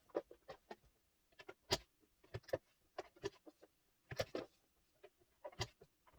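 Scattered light clicks and taps at irregular intervals, small handling noises while the sewing machine is stopped between runs.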